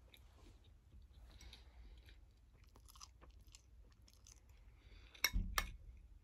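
A person eating chewy instant noodles close to the microphone: soft chewing and wet mouth sounds. About five seconds in come two sharp clicks with a low thud.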